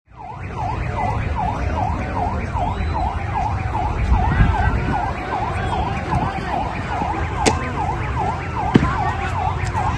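Emergency vehicle siren in a fast yelp, its pitch dipping and rising again about two or three times a second, over a low rumble. Two sharp knocks sound near the end.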